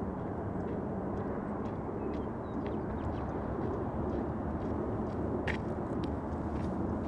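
Steady low outdoor rumble, like distant traffic, with faint short chirps or ticks scattered over it. One is more distinct about five and a half seconds in.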